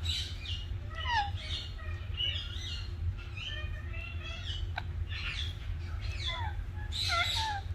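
Pet parrot chirping and whistling: a quick run of short falling and warbling calls, over a steady low hum.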